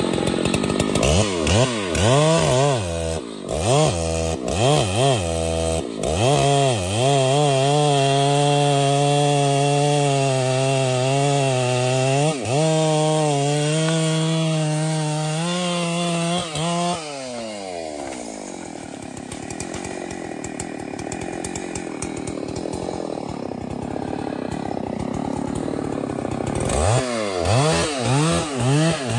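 Chainsaw engine revved in several quick blips, then held at high revs for about ten seconds while cutting wood. The revs fall away, leaving a quieter, rougher stretch, and a few more blips come near the end.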